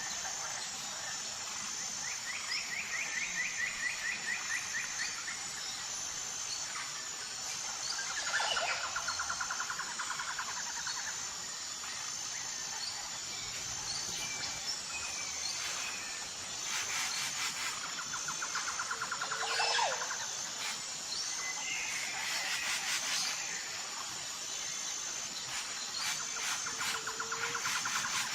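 Tropical forest ambience: several birds calling, with rapid trills and short whistled notes, over a steady, high, rhythmically pulsing insect chirr.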